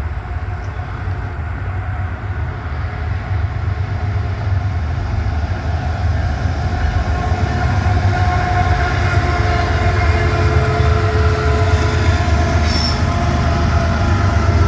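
Approaching freight train of tank cars, a heavy low rumble that grows steadily louder as it nears.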